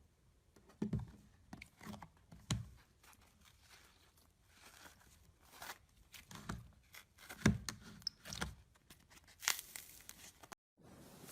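Crunchy slime being pressed and squeezed close to the microphone: irregular sharp crackles and crunches with a few soft low thuds. It breaks off suddenly near the end.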